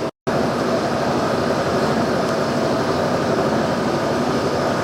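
Steady, unbroken whirring of running machinery, after a split-second gap to silence right at the start.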